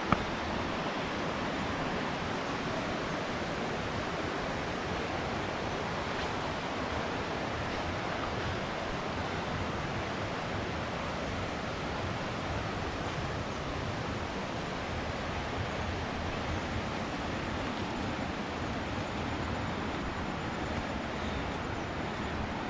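Steady rushing water, the constant roar of a waterfall, with a single short click right at the start.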